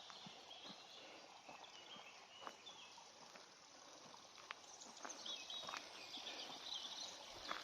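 Faint woodland birdsong: short chirping phrases from small songbirds, about a second and a half in and again about five seconds in, over a steady low hiss, with a few soft scattered ticks.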